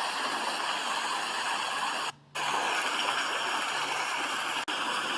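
Steady rain, an even hiss of water. It cuts out for about a quarter second about two seconds in, and dips again very briefly near the end, like splices in the recording.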